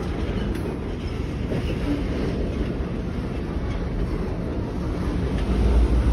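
Freight train of boxcars rolling slowly past, a steady rumble of steel wheels on the rails with some clickety-clack. The low rumble grows louder near the end.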